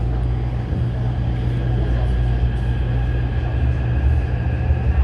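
Taipei Metro train running along the track: a steady heavy rumble with a faint steady high whine above it.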